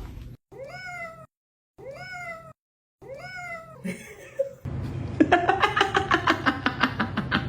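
A cat meowing three times, each the same rising-then-falling call, spaced just over a second apart. About halfway through, a loud fast run of pulsing sounds starts, about five pulses a second.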